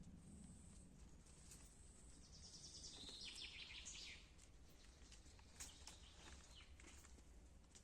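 Faint songbird singing a short, rapid trill that falls in pitch, over a quiet forest background with a few faint clicks.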